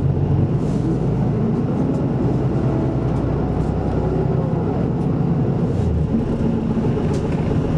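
Isuzu Erga Mio city bus running, heard from inside the cabin: a steady engine and drivetrain drone with road rumble, the engine note shifting slightly about five seconds in.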